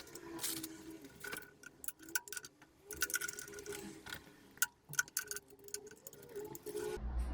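Irregular small metallic clicks and ticks of hand tools being handled, with a faint ringing after some of them.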